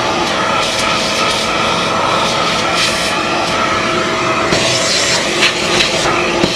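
Kärcher MV6 P Premium wet-and-dry vacuum cleaner running loud and steady, with a constant whine. From about four and a half seconds in, its hiss turns uneven with brief surges.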